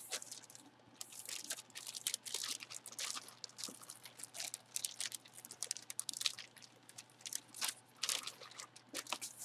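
Packaging crinkling and rustling in irregular bursts as a boxed autographed jersey is unpacked and handled.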